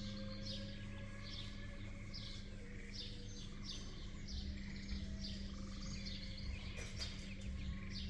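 A bird chirping over and over in short high notes that drop in pitch, two to three a second, over a steady low hum.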